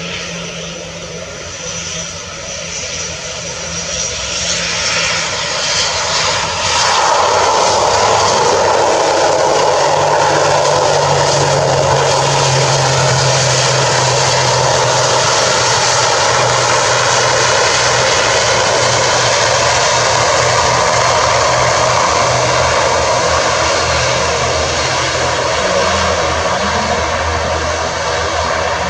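ATR 72 turboprop's twin Pratt & Whitney PW127 engines and propellers running loud, with a steady propeller hum. It grows louder over the first seven seconds or so, holds steady, and eases slightly near the end.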